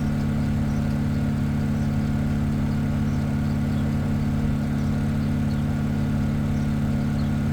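An engine idling steadily, a constant low hum with strong low tones and no change in level.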